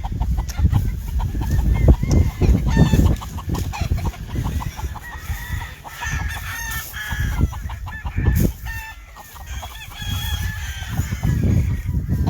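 Whitehackle gamefowl roosters crowing several times, overlapping, with hens clucking, over a low rumble.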